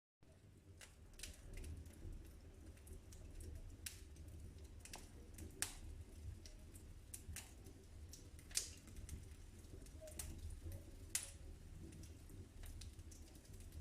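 Wood fire crackling in a fireplace: irregular sharp pops and snaps, a few louder than the rest, over a low steady rumble of the burning fire, after a split-second gap at the very start.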